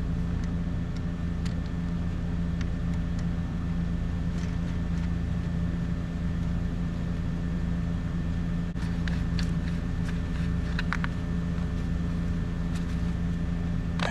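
A steady low drone of a machine running at an even idle, with a few light metallic clinks about nine to eleven seconds in.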